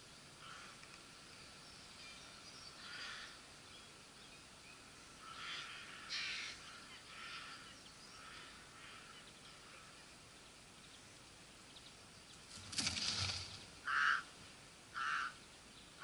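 Outdoor ambience with birds calling now and then. Near the end there is a brief rustling burst, then three short, harsh bird calls about a second apart.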